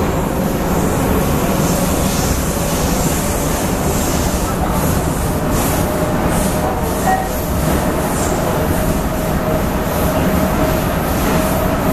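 Prague metro line A train running at speed in the tunnel, heard from inside the carriage: a steady rumble of wheels on rail, a faint motor whine and repeated short clacks and rattles.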